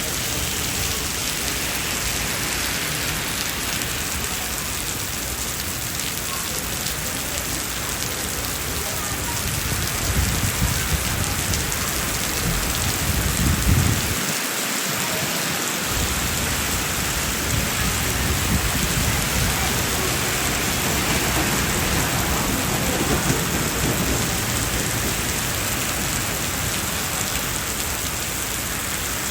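Heavy rain pouring steadily onto the street and surfaces. A low rumble swells in the middle and cuts off suddenly.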